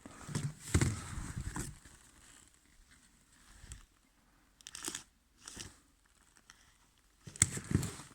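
Rustling and handling noises in three short bursts: one near the start, one about five seconds in and one near the end.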